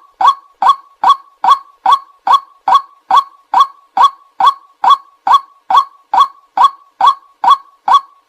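White-breasted waterhen call played as a lure: a short, nasal 'kwak' note repeated at an even pace, a little over two a second.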